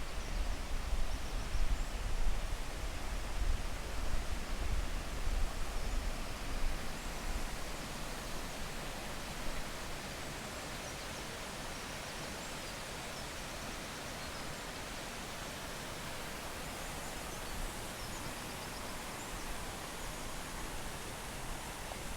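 Steady rush of a waterfall's falling water, an even hiss. A low rumble under it fades out about nine seconds in.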